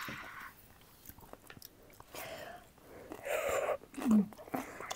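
Close-up mouth sounds of eating: irregular chewing and crunching of food, loudest a little past the middle, with a short low vocal sound about four seconds in.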